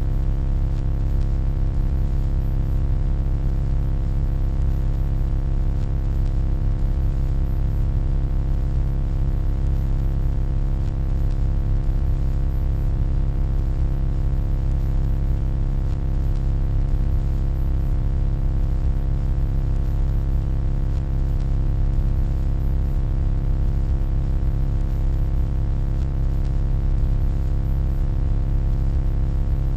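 Steady electronic hum: a deep low drone with many faint steady tones layered above it, unchanging in pitch and loudness.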